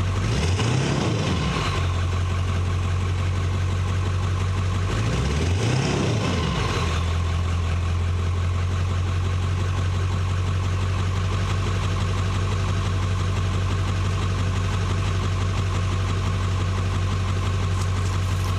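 1998 Ford F-250 pickup's engine idling after a cold start, blipped twice: the revs rise and fall briefly about a second in and again around six seconds in, then it settles to a steady idle.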